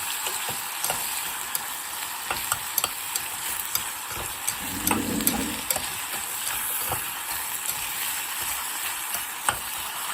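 Khô quẹt, a fish sauce and sugar mixture, sizzling as it fries in a pan on the stove while it is stirred. A utensil clicks against the pan now and then.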